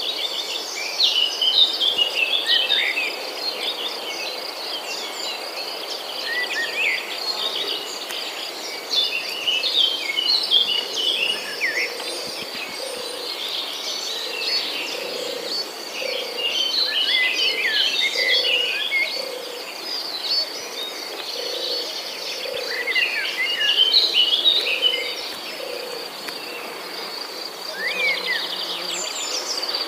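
Several small birds chirping and twittering in bursts over a steady, high insect trill, with a soft low call repeating about once a second through the middle stretch.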